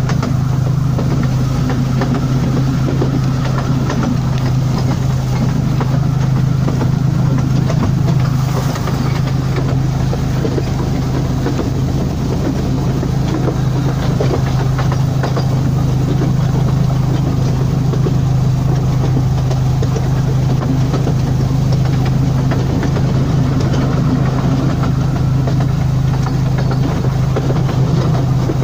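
Small narrow-gauge tourist train car running along its track: a steady low drone with a continuous light rattle.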